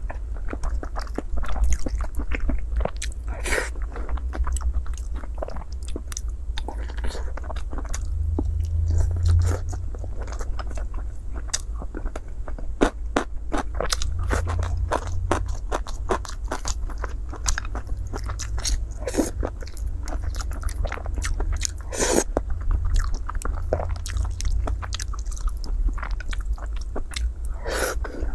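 A person chewing and biting a mouthful of rice and braised pork belly, with many small, irregular wet mouth clicks over a low steady hum.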